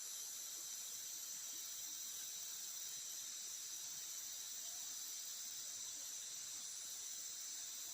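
Forest insects chorusing: a steady, high-pitched drone made of several shrill layers that never pause.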